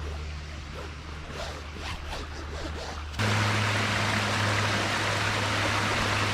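Waterfall water rushing, cutting in suddenly and loudly about halfway through after a quieter stretch with a low hum.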